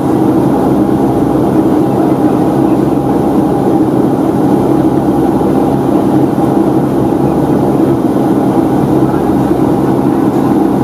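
Steady cabin noise of a Boeing 757-200 in flight: the Rolls-Royce RB211 engines' even drone under a constant rush of air, with several steady low hum tones.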